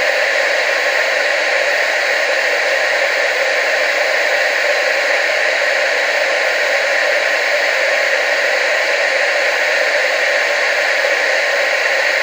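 Television static: a steady, even hiss, strongest in the mid and upper range with little bass.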